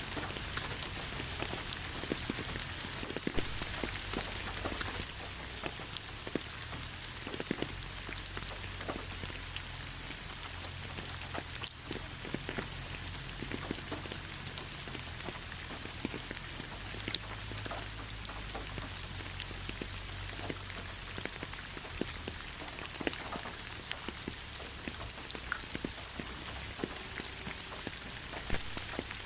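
Steady rainfall, with many separate drops pattering and ticking on a surface over a constant hiss and a faint low rumble.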